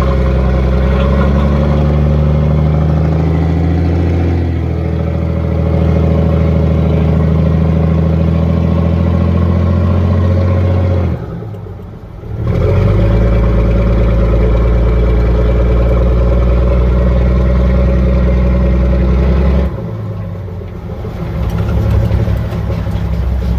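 M923 5-ton truck's naturally aspirated 14-liter Cummins inline-six diesel running under load on the road, a steady deep drone. It drops off briefly twice, about eleven and twenty seconds in, as the power eases and then comes back.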